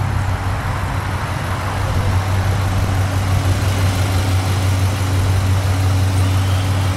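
A vehicle engine idling: a steady low hum with a constant pitch that grows a little louder over the stretch.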